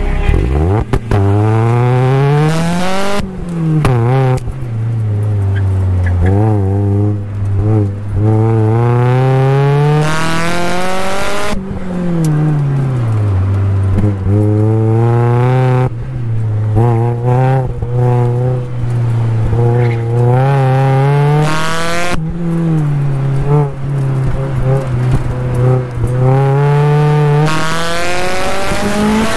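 Supercharged Mazda Miata four-cylinder engine under hard driving, heard from inside the open cockpit. It repeatedly revs up, climbing in pitch, then drops off as the car slows for the next corner. There are warbling bursts of tyre squeal through the turns.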